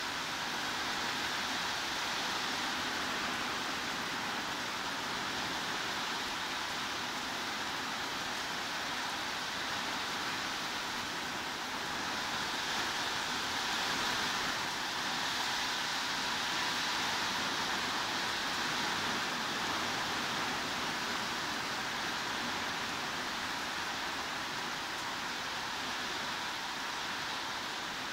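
Heavy rain falling steadily: a dense, even hiss with no separate drops or other sounds standing out, swelling a little about halfway through.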